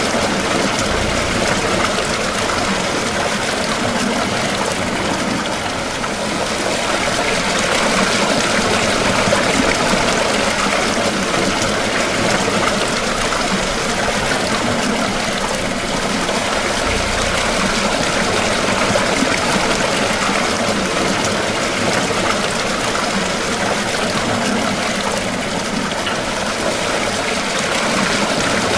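Running water: a steady, even rush of water pouring and splashing into the engine's cold-water cistern.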